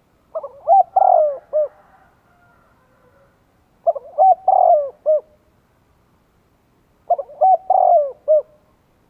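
Spotted dove cooing: three phrases of several coos each, roughly three seconds apart. It is a decoy male's call, used to lure wild doves.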